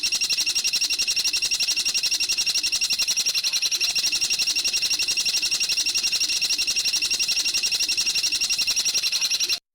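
A bird's rapid, even trill of high-pitched notes, about a dozen a second, held steady and cutting off abruptly near the end, as in a looped birdsong training recording.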